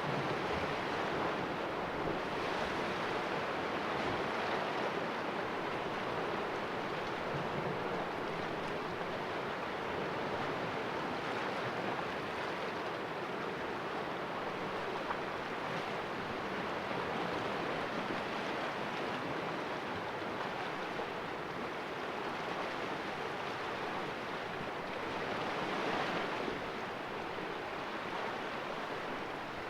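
Sea waves washing against rocks in a cove, a steady hiss of surf with gentle swells, one of them slightly stronger near the end.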